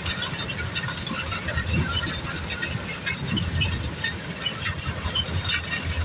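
An engine running steadily with an uneven low throb, with faint scattered high ticks or chirps above it.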